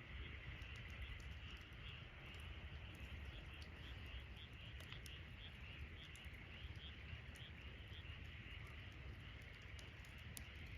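Wood campfire crackling quietly, with scattered sharp pops over a steady low hiss. Through the middle a repeated high chirping call sounds about two to three times a second.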